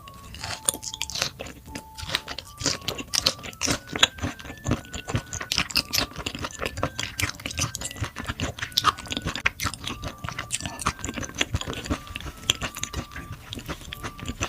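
A person chewing and biting food close to the microphone, with a constant run of quick wet clicks and crunchy bites.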